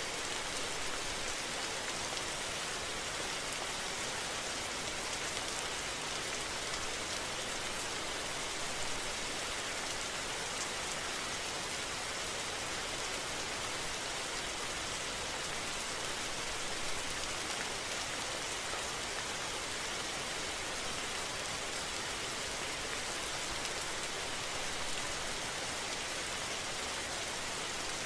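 Steady rain falling, an even hiss with fine patter throughout.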